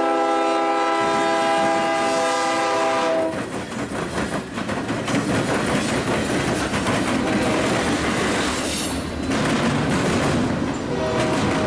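Norfolk Southern freight train's locomotive air horn sounding a multi-note chord, which cuts off about three seconds in. Then the locomotives and double-stack container cars roll past with a steady rumble, their wheels clattering over the rail joints and track crossing.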